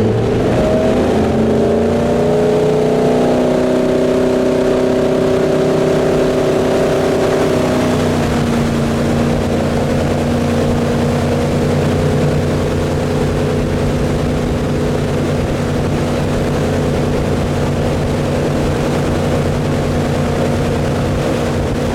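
Centurion Fi25 wake boat's inboard engine accelerating up to towing speed, then running steadily under load with water and wind rush. Its pitch drops slightly about eight seconds in and then holds.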